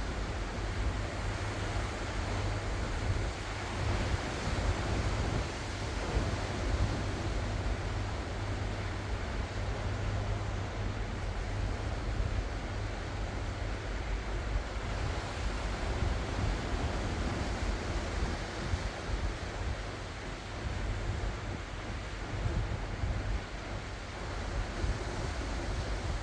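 Ocean waves washing ashore in a steady surf, with wind buffeting the microphone in a low, fluctuating rumble.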